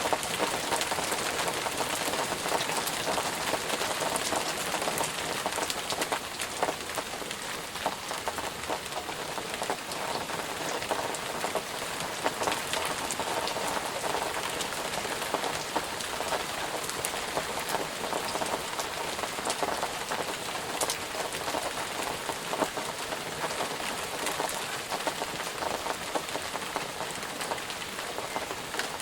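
Steady rain falling on a surface, a dense patter of many small drop impacts with no thunder or other sounds.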